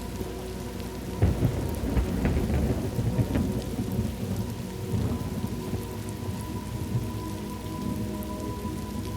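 Thunderstorm ambience: steady rain falling, with a roll of thunder that breaks about a second in and rumbles for a few seconds before fading back under the rain.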